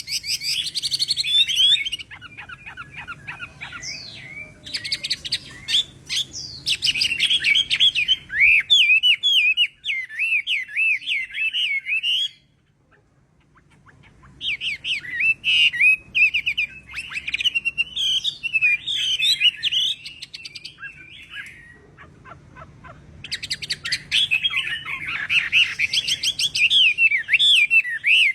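Chinese hwamei (họa mi) singing: rapid, varied whistled phrases in three bouts, with short pauses about twelve seconds in and again about twenty-one seconds in.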